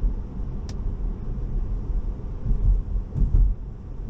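Low, steady road and tyre rumble inside a Tesla electric car's cabin while driving on a wet road, swelling slightly a few seconds in, with a single short click under a second in.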